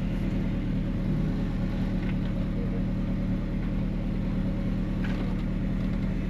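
Off-road 4x4's engine running steadily at a low, even drone.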